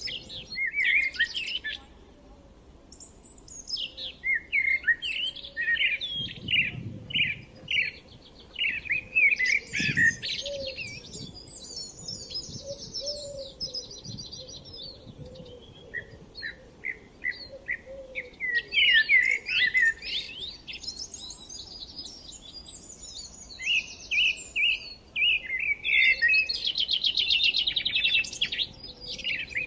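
Several songbirds chirping and singing, quick chirps and fast trills overlapping in clusters with short lulls between them.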